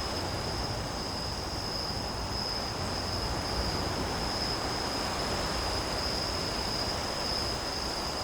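Crickets chirping in a steady, high-pitched chorus over an even background hiss, a recorded nature-sound bed.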